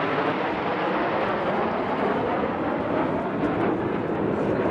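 Aircraft flying past at an air display: a loud rushing engine noise whose pitch slowly drops as it goes by.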